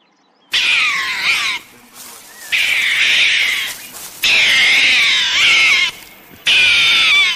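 High-pitched animal calls in four loud bursts of one to two seconds each, wavering and sliding in pitch and cutting off abruptly.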